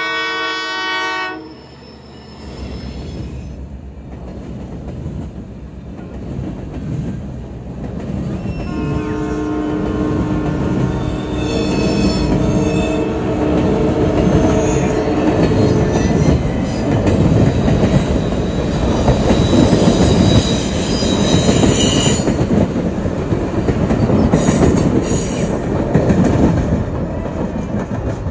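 Freight diesel locomotive's horn sounding, cutting off about a second in, then the train rolling past close by: a rumble and clatter of wheels on rail that grows louder toward the middle, with high wheel squeals. Another held multi-note tone sounds for several seconds in the middle.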